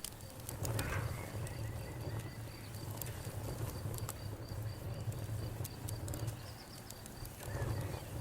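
Campfire burning, with scattered sharp crackles and pops over a low steady rumble. A cricket chirps in an even rhythm in the background.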